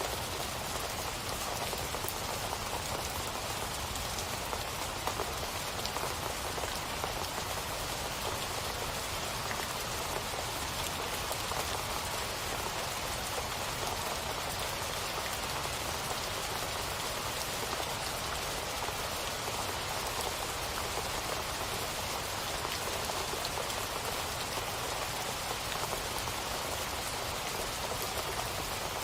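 Steady rain falling on a surface, a continuous even patter of drops with no change in intensity.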